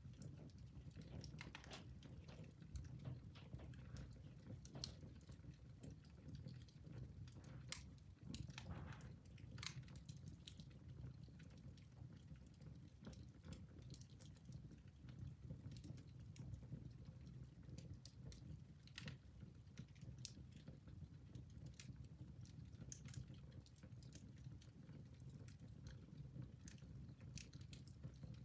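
Wood fire in a fireplace crackling softly: scattered, irregular pops and snaps over a low, steady rumble of the flames.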